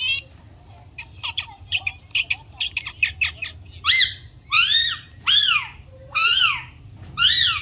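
A pet parakeet calling: a quick run of short chirps for about two seconds, then five loud squawks, each rising then falling in pitch, repeated just under a second apart.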